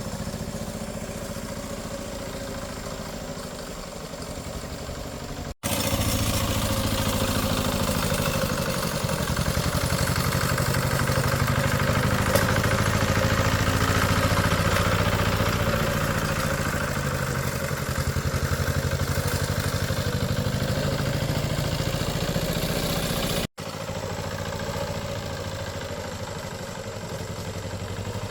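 A small engine running steadily. It breaks off abruptly twice; between the breaks it runs louder and fuller, then it returns to a lower level.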